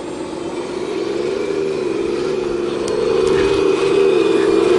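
Heavy earthmoving machinery's engine running with a steady drone that wavers slightly in pitch and grows steadily louder, with a couple of faint clanks about three seconds in.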